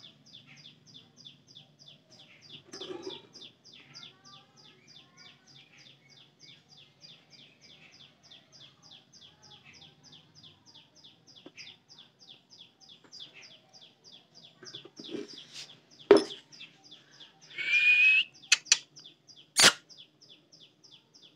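A small bird chirping over and over, about four short high chirps a second. Near the end come a few sharp clicks and a brief louder sound.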